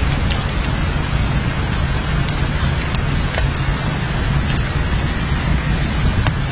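Steady rain: an even hiss with scattered sharp drop ticks over a constant low rumble.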